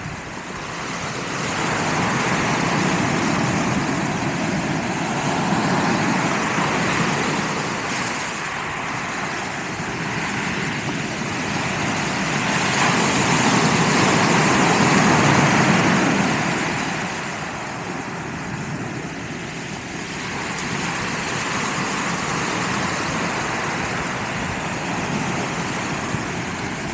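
Ocean surf: waves breaking and washing up the beach, a rushing noise that swells and fades over several seconds, loudest about halfway through.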